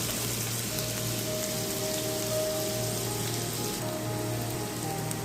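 Sliced onion sizzling in hot oil in a frying pan: a steady frying hiss. Faint background music with held tones sits underneath.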